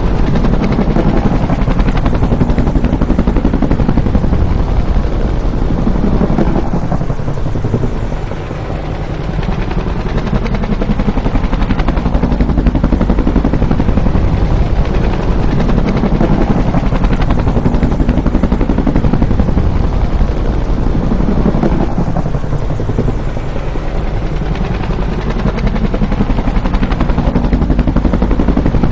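Bell UH-1 "Huey" helicopter's two-bladed main rotor beating rapidly as it flies by. The sound swells and dips twice, about a third of the way in and again about three quarters of the way through, as the aircraft passes.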